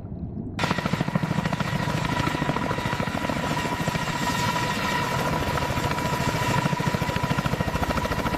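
Helicopter rotors beating rapidly over a steady turbine whine. The sound starts abruptly about half a second in.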